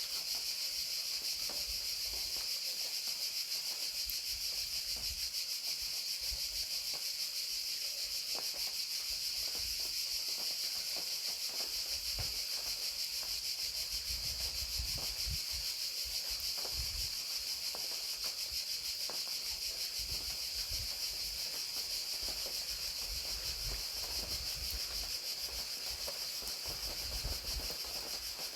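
Crickets chirping steadily in a dense, high-pitched chorus, with rain falling and scattered faint drops ticking underneath.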